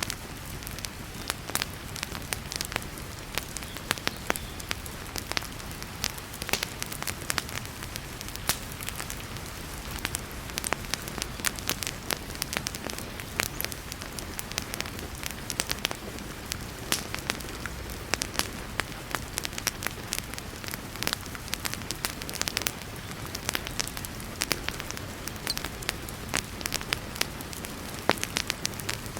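Wood fire in a fireplace crackling, with frequent sharp pops, over the steady hiss of heavy rain.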